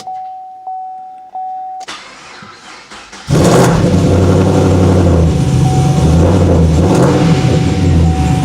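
The car's warning chime pulses about every 0.6 seconds, then stops with a click. About three seconds in, the Whipple-supercharged 6.2-litre V8 of a 2011 Camaro SS starts and settles into a loud, lumpy idle through its Borla exhaust and headers.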